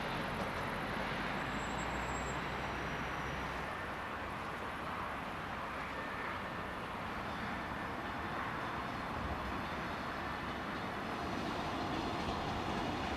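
A train running on the tracks: a steady rumble of wheels on rail, with two brief faint high tones in the first few seconds.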